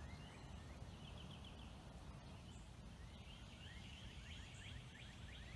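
A songbird singing faintly: a short run of quick chirping notes about a second in, then a longer run of about ten from about three and a half seconds in, over a low steady background rumble.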